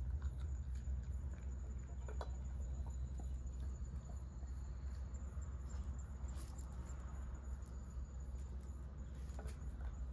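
Insects singing: a very high-pitched chirp repeating evenly about three times a second, over a steady low rumble, with a few faint clicks.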